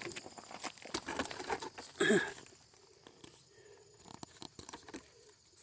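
Footsteps crunching and rustling over the ground and vegetation on a walk, with a brief falling-pitch sound about two seconds in; after that the steps thin out to a few faint ticks.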